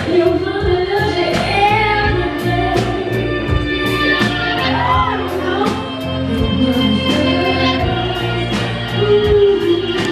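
Live soul-rock band playing with a woman singing lead over a steady beat.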